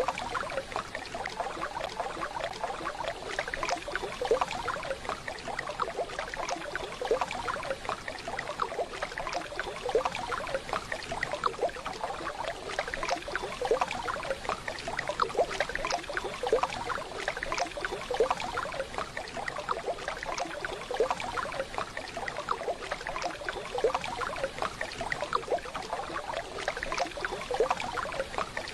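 Waterfall water splashing and burbling steadily, an irregular stream of small splashes with no let-up.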